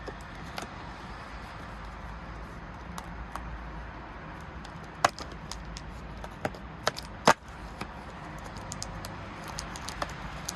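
Hands handling a Kinder Surprise egg and its packaging: scattered light crackles and clicks, with four sharp clicks clustered about five to seven seconds in, over a steady low hum.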